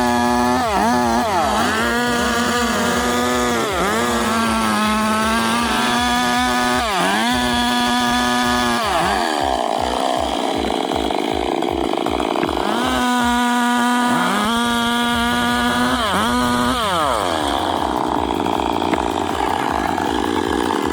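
A two-stroke chainsaw running at high revs, its engine pitch dipping and recovering again and again as it cuts. In between are stretches of lower, rougher running.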